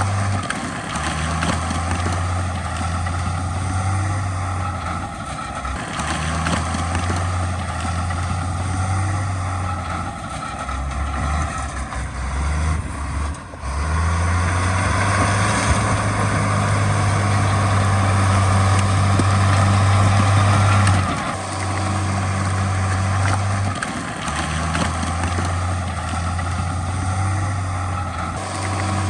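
Heavy diesel earthmoving machinery, bulldozer and dump-truck engines, running continuously under working load, with the engine note rising and dropping as the machines work, louder for several seconds in the middle.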